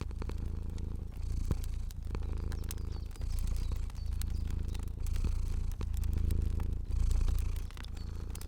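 A cat purring steadily, the purr swelling and easing in waves about once a second with each breath, over the light popping and crackling of a fire.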